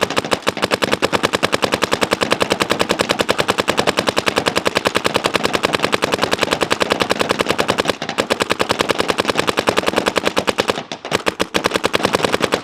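Shocker ERA electronic paintball marker firing in rapid strings of evenly spaced shots on compressed air, with brief breaks about eight and eleven seconds in.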